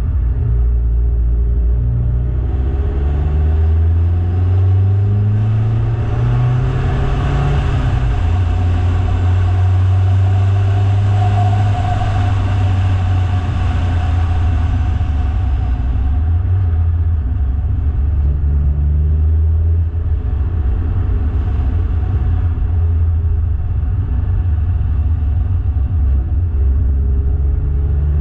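Car engine pulling steadily uphill, its note rising several times as it accelerates through the gears, over a constant low rumble. A broader rushing noise swells in the middle and then fades.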